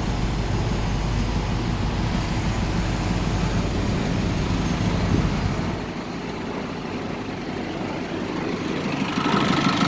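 A 2005 GMC box truck's engine running with a steady low hum. About six seconds in the deepest part of the hum falls away, and the sound builds again near the end.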